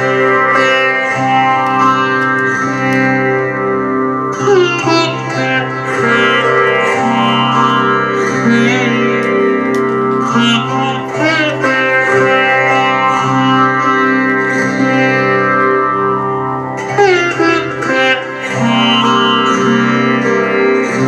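Sitar playing a slow melody with plucked notes that bend in pitch, over a steady ringing drone.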